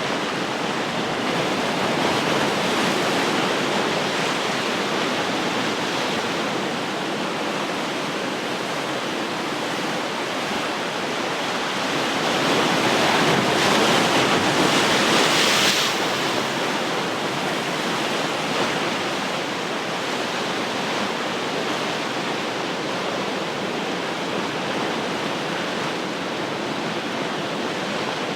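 Ocean surf washing ashore in a steady rush, with one bigger wave breaking about halfway through, louder and hissier for a few seconds before it drops back.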